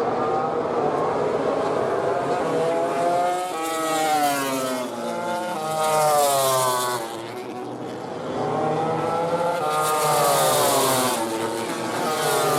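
MotoGP racing motorcycle engines at full throttle, climbing in pitch and dropping back again and again as they shift up through the gears, with a couple of louder rushing passes.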